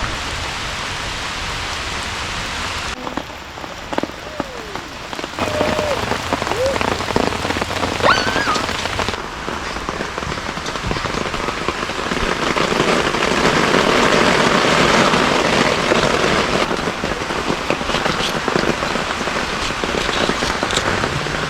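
Heavy rain falling steadily, growing louder around the middle.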